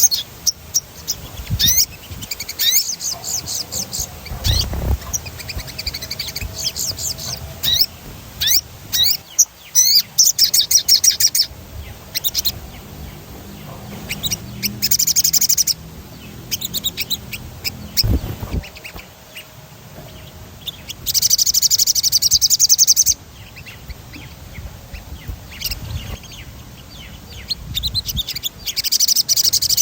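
Sogon songbird singing, its high chirps breaking into rapid rolling trills of a second or two at a time, with one longer dense trill about two-thirds of the way through. Two dull low thumps are heard, one early and one in the second half.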